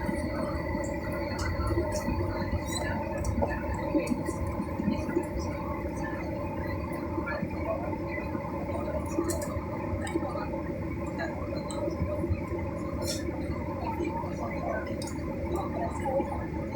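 Airliner engines running steadily, heard from inside the passenger cabin: a constant rumble with several steady whining tones layered over it.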